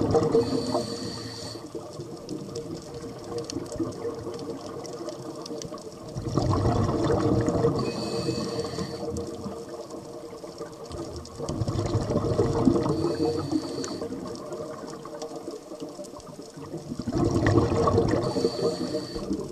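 Scuba diver breathing underwater through a regulator: a hiss on each inhale, then a burst of bubbling exhaust on each exhale, repeating about every five to six seconds.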